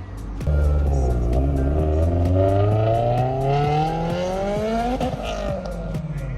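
A car engine accelerating hard, its pitch climbing steadily for about four seconds, then dropping at a gear change about five seconds in.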